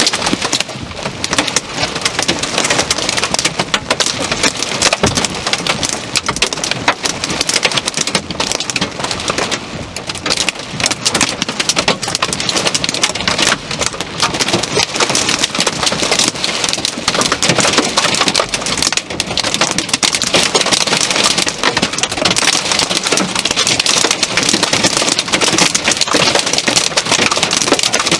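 Torrential thunderstorm rain pouring down, a dense, steady clatter of many drop impacts that grows a little louder over the second half.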